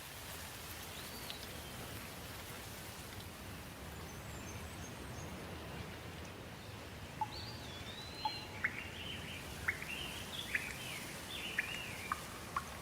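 Steady hiss of rain, with a small bird singing a run of quick sharp chirps and short whistled glides from about halfway through.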